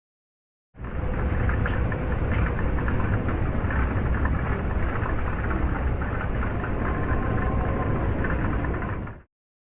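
Made-up 'space sound' effect: a deep rumbling, crackling noise with a faint steady tone in it, starting about a second in and cutting off suddenly near the end.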